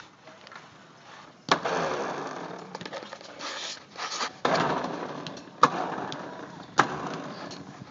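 Hollow knocks, each followed by a rumbling, scraping noise that fades over a couple of seconds, twice, then a few sharp single knocks: people scrambling over a playground structure and slide.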